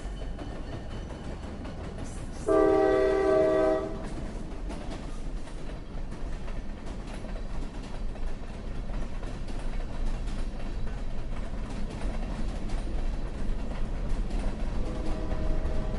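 Diesel freight train led by EMD GP38-3 locomotives running through a grade crossing, a steady low rumble with rail clatter. A short, loud air-horn blast sounds about two and a half seconds in, and a fainter horn sounds again near the end, the warning for the grade crossing.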